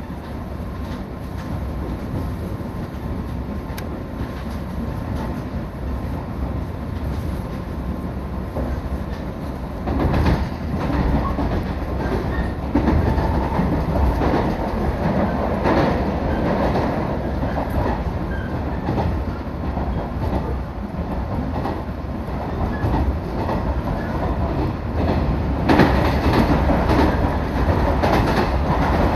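A Sanyo Line train running along the track: a steady rumble with the clatter of wheels over rail joints. It grows louder about a third of the way in and again near the end.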